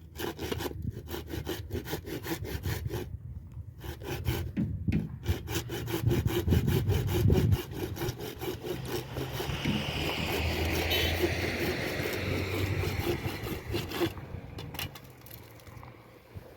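Hand saw cutting through wood in quick, regular back-and-forth strokes, about three a second, stopping about two seconds before the end.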